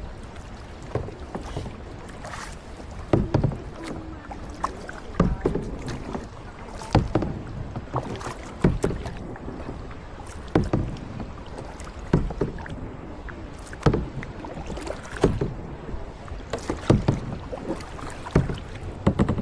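Kayak paddle strokes dipping and splashing in the water, a sharp splash about every one and a half to two seconds, in a steady rhythm.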